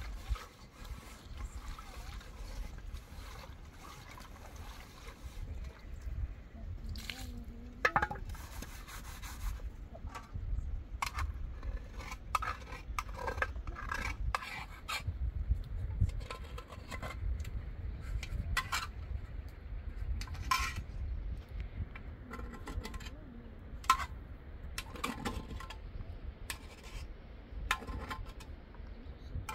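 Scattered clinks, scrapes and knocks of utensils against pots and dishes, with sloshing of liquid, over a steady low rumble.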